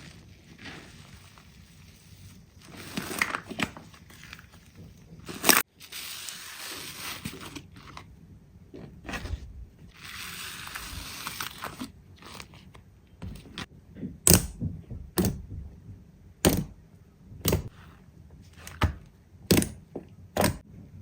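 Slime being squeezed and pressed by hand, with crunchy, crackling squelches, then a series of sharp pops about once a second near the end as air pockets burst.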